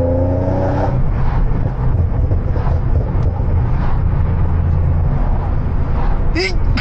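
Infiniti G37S coupe's V6 engine and aftermarket HKS exhaust heard from inside the cabin. It rises in pitch under acceleration for about the first second, then settles into a steady drone. A brief vocal sound cuts in near the end.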